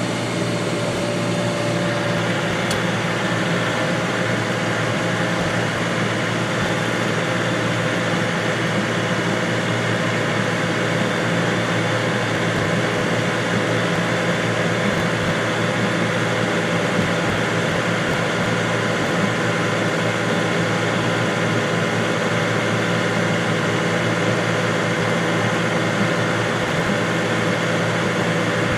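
A machine running steadily: a constant drone with a low, unchanging hum.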